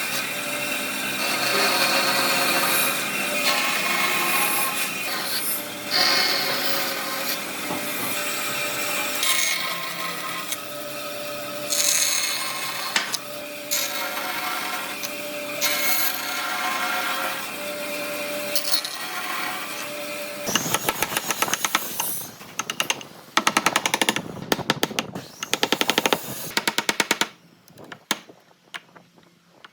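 Woodworking power tools working wood: a tool runs with a steady grinding noise and a held whine for about the first twenty seconds, then rapid rattling strikes come in short bursts, with a brief quiet pause near the end.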